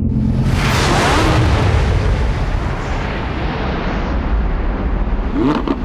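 A loud explosion-like rumbling boom that swells about half a second in, holds for a few seconds and then slowly dies away near the end.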